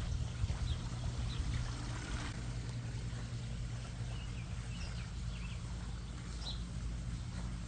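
Backyard pond waterfall and fountain splashing over a steady low rumble, with birds chirping briefly several times.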